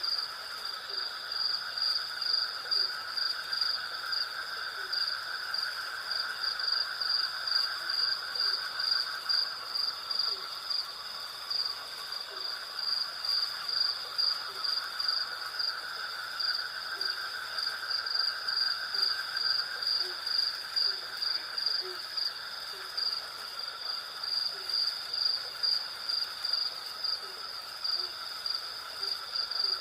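Night chorus of crickets and other insects: a high, rapidly pulsing chirp over steadier trilling at lower pitches. Short, faint low calls come every second or two underneath.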